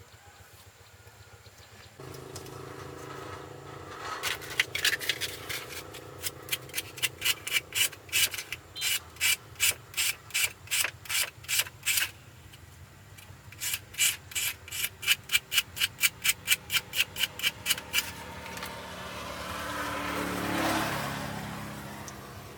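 Rhythmic back-and-forth scraping strokes, about three a second, in two long runs separated by a short pause, over a steady motor hum that starts about two seconds in. Near the end a rush of noise swells and fades.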